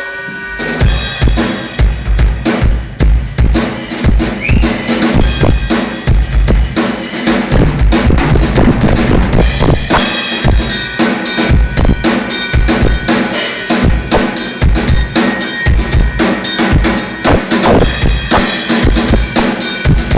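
Drum kit played continuously during a sound check: bass drum, snare and cymbals in a steady beat, starting about a second in.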